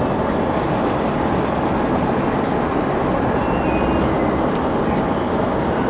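Steady running noise of a commuter train heard from inside the carriage: a continuous rumble of wheels on rail.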